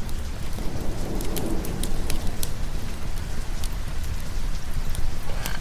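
Steady heavy rain with a low rumble of thunder beneath it, and scattered sharp crackles from a wood fire throughout.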